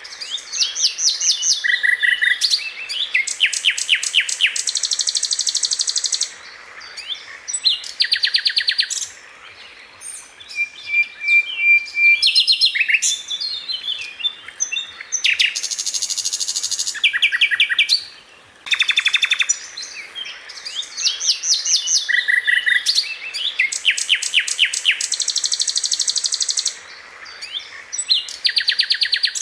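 Sikatan londo flycatcher singing in dense bursts of rapid, evenly spaced notes and chattering trills, broken by short pauses and one brief held whistle. The same run of phrases repeats about 18 seconds later, as a looped master recording for training songbirds.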